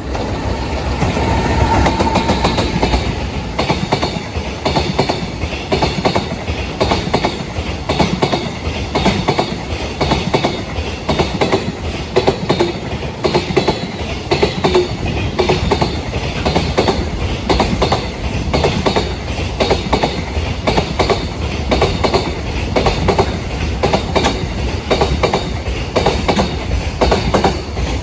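Freight train wagons running past, the wheels clacking over rail joints in a dense, continuous rhythm. A brief steady whine about a second in.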